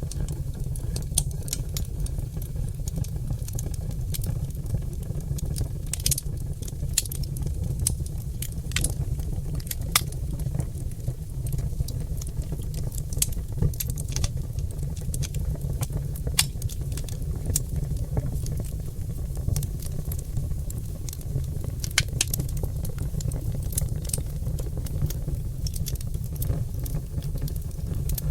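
Oak logs burning in a fireplace, crackling and popping: frequent irregular sharp snaps over a steady low rumble.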